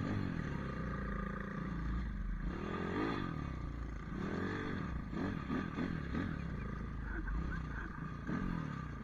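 Pit bike engine running, its pitch rising and falling a few times as the throttle is opened and let off.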